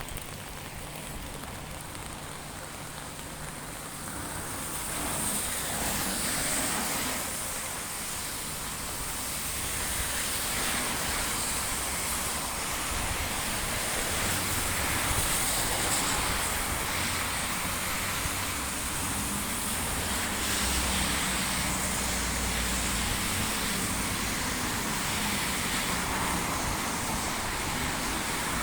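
Heavy rain falling steadily, getting louder about four seconds in, with a low rumble of passing road traffic beneath it.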